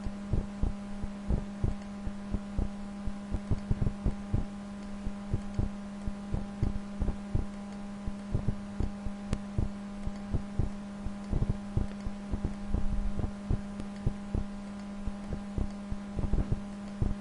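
A steady low electrical hum with irregular soft thumps, often several a second.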